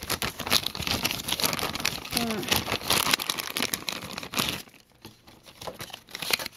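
Plastic packaging crinkling and rustling with small handling clicks as a toy kit is unpacked; the handling goes much quieter about four and a half seconds in.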